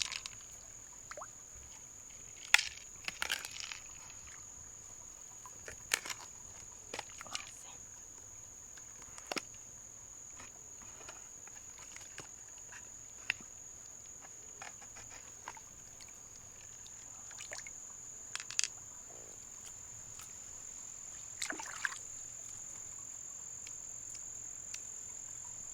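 A steady, high-pitched insect drone, like crickets, with small clicks and knocks scattered through it at irregular intervals.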